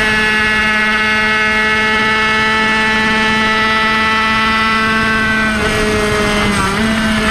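Kreidler Van Veen 50cc two-stroke racing engine running hard at high revs, a steady high-pitched note with wind rumble on the microphone. Near the end the pitch dips briefly and then climbs back.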